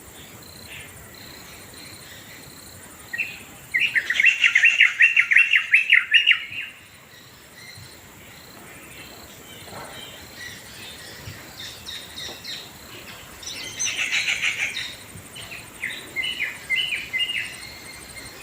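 Birds calling: a loud, fast run of repeated chattering notes about four seconds in, lasting about three seconds, then scattered shorter calls and another burst of rapid notes later on. A steady high insect trill runs underneath.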